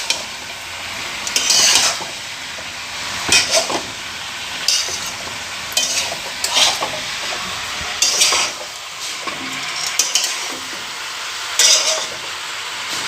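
Chicken and masala sizzling in a pan while a spoon stirs it, scraping the pan in strokes about every one and a half seconds over a steady frying hiss.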